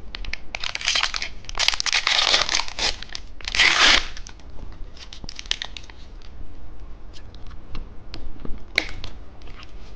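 Plastic wrapper of a cheese-stick candy being torn open and crinkled, with three loud tearing rustles in the first four seconds, then lighter scattered crackles and clicks of the packaging being handled.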